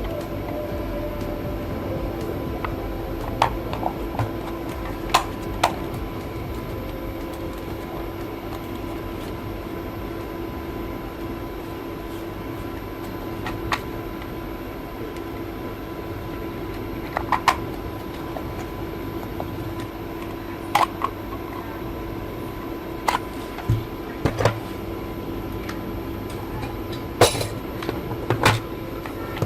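A steady machine-like hum with a held tone, broken by scattered sharp clicks and knocks.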